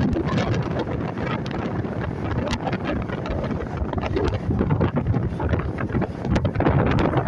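Wind buffeting the microphone aboard a motorboat under way, over the steady rush of the boat's running and the water.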